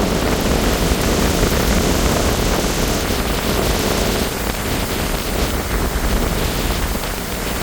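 Hurricane wind blowing hard against the microphone, a steady rush that is heaviest in the first three seconds and eases a little after about four.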